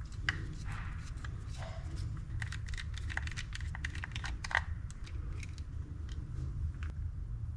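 Scattered light clicks and taps of small metal parts and tools being handled while a Daiwa Catalina 6500H spinning reel is taken apart. The clicks come thickest in the middle, over a steady low hum.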